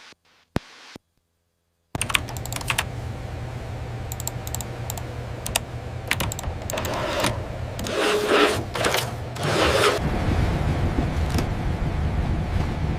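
Restored wartime aircraft's piston engine running while the plane holds short for takeoff: a steady rumble with crackling clicks, starting about two seconds in after a near-silent gap. The low rumble grows heavier near the end.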